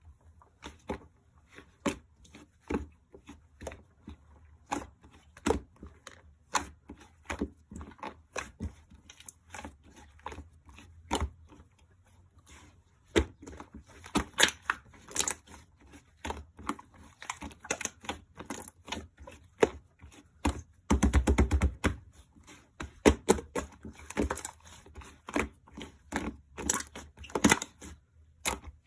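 Irregular sharp clicks, taps and crackles, coming several times a second, with a dense rapid rattle lasting about a second about two-thirds of the way through.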